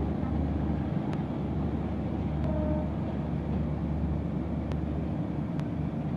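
Steady low rumble of a Bangladesh Railway passenger train running, with a few faint clicks.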